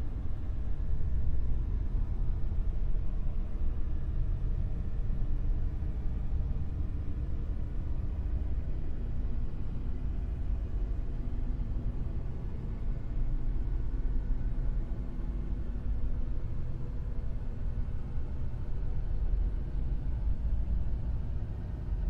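Dark noise wave sound effect: a continuous deep rumbling noise drone that slowly swells and ebbs in loudness, with faint steady tones above the rumble.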